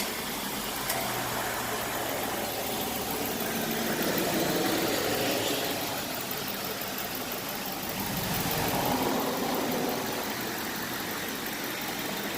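2002 Chevy Tahoe's Vortec V8 idling, with two gentle swells in level.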